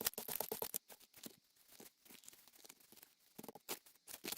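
Gel-printing materials handled on a work table: irregular small taps, clicks and brief paper rustles, busier near the end.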